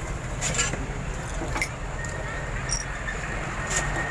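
Road traffic ambience: a steady low rumble of passing vehicles, with scattered light clicks and knocks and a faint thin steady tone starting about halfway through.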